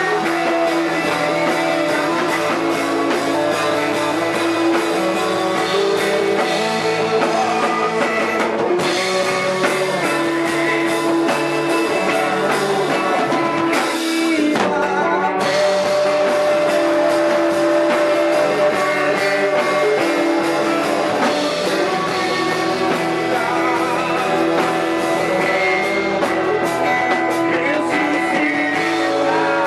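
A live band playing a worship song, with guitars, a drum kit and singing.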